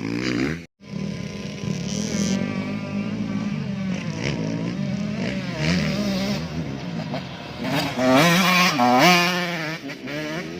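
Motocross dirt bike engines running and revving on the track, their pitch rising and falling repeatedly as the throttle opens and closes, loudest near the end. The sound cuts out for a moment just under a second in.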